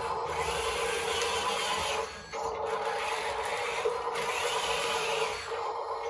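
Electric motor and pump of a radio-controlled model construction machine whining steadily, with a brief dip about two seconds in and a hiss that swells and fades as the machine works.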